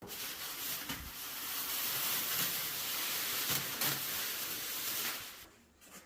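A steady hiss that starts abruptly and dies away after about five seconds.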